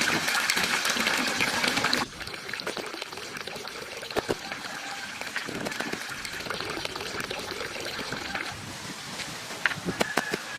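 Running, splashing water, louder for the first two seconds and then softer, with scattered small clicks.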